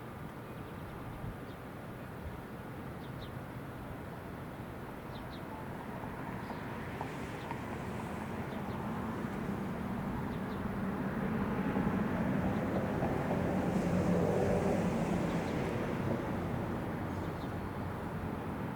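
A low rumble of a passing vehicle, swelling slowly to its loudest about two thirds of the way through and then fading a little.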